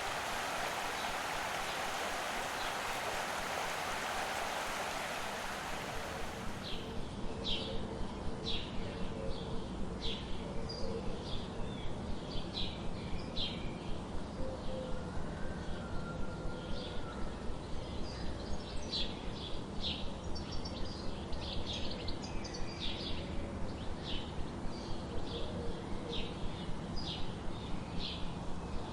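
Running water rushing steadily for about six seconds, then a cut to songbirds chirping: short, sharp chip notes repeated about three times a second, with other bird calls mixed in.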